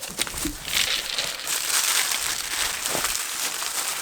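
Rustling, crackling noise, loudest in the middle, with a few small clicks.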